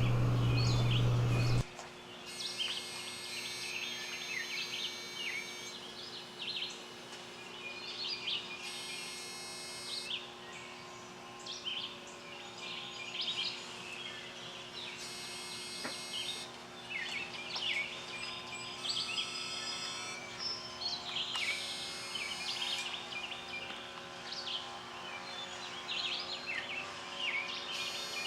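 Songbirds chirping and calling in a tree, a continual run of short, quick chirps rising and falling in pitch. A louder low steady hum cuts off abruptly under two seconds in.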